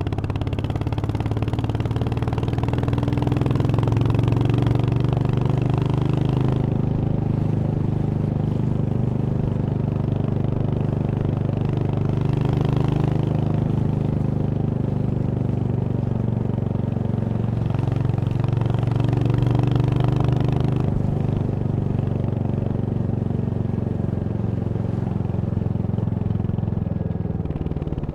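Royal Enfield Hunter 350's single-cylinder engine running under way, its pitch rising with throttle a few seconds in and again near the two-thirds mark, then falling back as the throttle closes.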